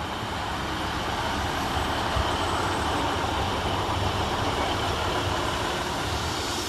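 Class 150 Sprinter diesel multiple unit arriving at a station platform, its engines and wheels on the rails making a steady rumble that grows louder over the first couple of seconds and then holds.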